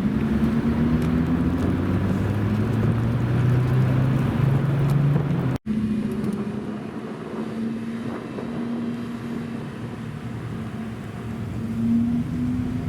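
Sports-car engine running with a slowly rising note, cut off abruptly about five and a half seconds in, then a second engine sound holding a steady note that rises a little near the end.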